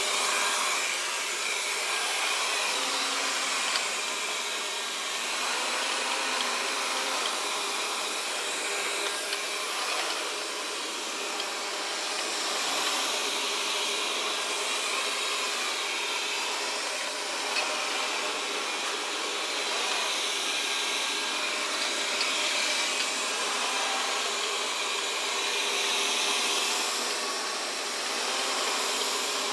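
Xiaomi Mijia robot vacuum running steadily while cleaning: a constant fan whir with a few steady whine tones, and now and then a light knock.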